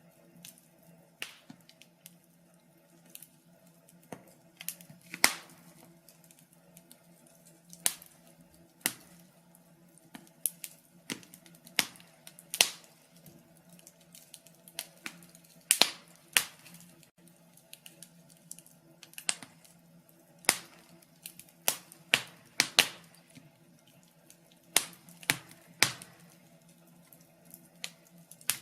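Wood fire in a fireplace crackling: irregular sharp snaps and pops, sometimes several in quick succession, over a faint steady hum.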